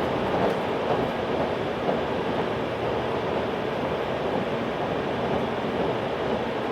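Running noise of a JR 383 series tilting electric train heard from inside the passenger car: a steady rumble and rush of wheels on rail and air, with no distinct rail-joint clicks.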